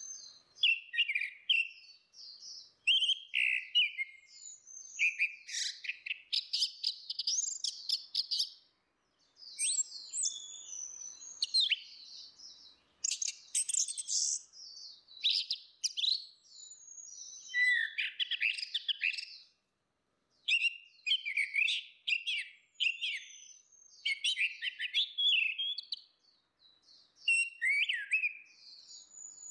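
Orange-headed thrush song: a fast, varied stream of whistled and chattering phrases, sung in bursts with short pauses.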